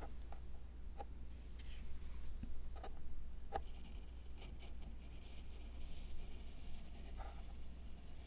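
Light scratching with a handful of small clicks and taps from handwork on a miniature dry-landscape zen garden diorama.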